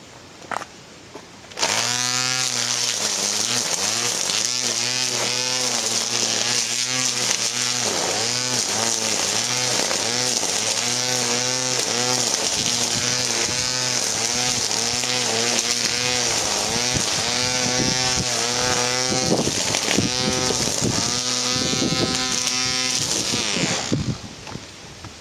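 Ryobi 18 V cordless string trimmer's electric motor running, its pitch rising and falling over and over as the trigger is worked, with the hiss of the spinning line. It runs on its 18 V lithium-ion pack, showing the revived battery holds power.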